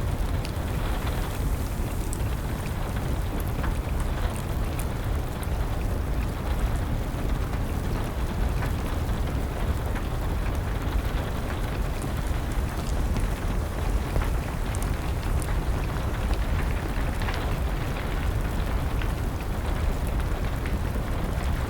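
Steady rain mixed with a crackling wood fire: an even hiss with a deep low rumble, and scattered sharp pops and ticks throughout.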